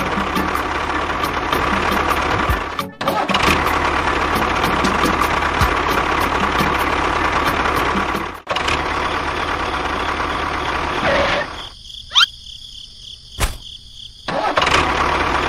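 A small motor running steadily with a constant whine. It cuts out briefly twice, then drops away for a couple of seconds, during which there is a short rising whistle and a click, before it runs again.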